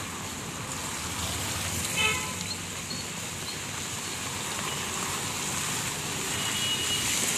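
Heavy rain falling with a steady hiss, with a short vehicle horn toot about two seconds in.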